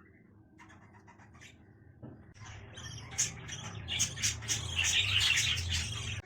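Baby budgerigar chicks calling: faint scattered peeps at first, then from about two seconds in a dense, louder chorus of short squawking calls that keeps building.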